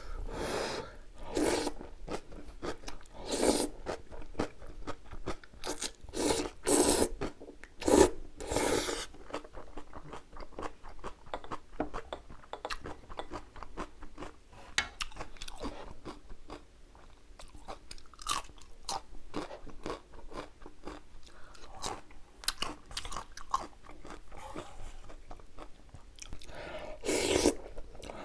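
Close-miked eating of spicy jjapagetti noodles and kimchi: chewing and crunching with many small wet mouth clicks. Louder mouthfuls come about a second in, around three to four seconds, in a cluster around six to nine seconds, and again near the end.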